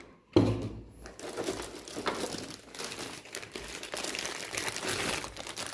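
Packaging crinkling and rustling as an AIO liquid cooler is unwrapped from its box, after a short knock just under half a second in.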